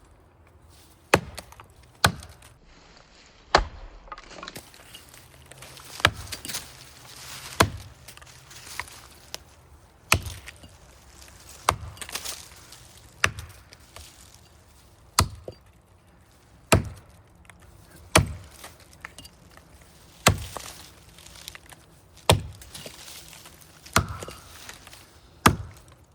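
Axe chopping into the trunk of a large hard maple, a steady series of about fifteen strikes, one every second and a half or so. The chopping is cutting out the felling notch on the face of the tree.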